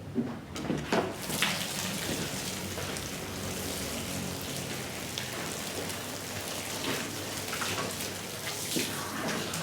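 Water spraying and splattering onto a soaked rug: a steady hiss that starts about a second in after a few knocks, with small splashes throughout.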